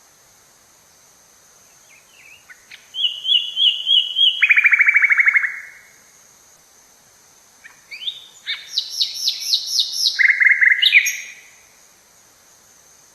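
Songbirds singing in two phrases of rapid, repeated high chirping notes, one starting about two seconds in and another about eight seconds in, with quiet between.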